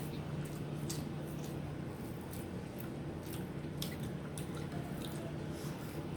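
Eating sounds: soft wet squishes and chewing with scattered small sharp clicks, over a steady low hum.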